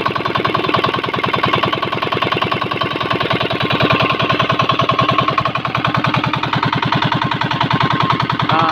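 Yamato 20 hp 198FA single-cylinder diesel engine running steadily with a fast, even chug during its break-in.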